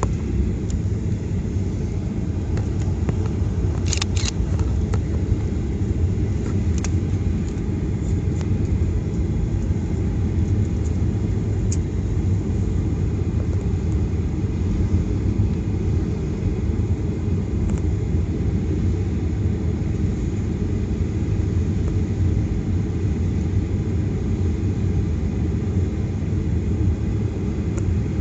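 Steady low rumble inside the cabin of a Boeing 737-800 on the ground, jet engines and rolling noise while the airliner taxis. A few sharp clicks about four seconds in.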